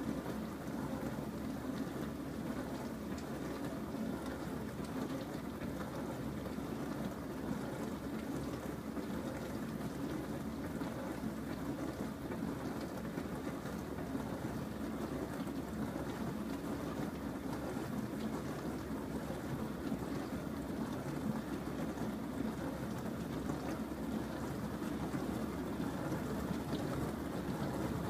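Bosch SMS50M08GN dishwasher running a wash cycle: a steady rush of water spraying and splashing inside the tub, with a low hum underneath.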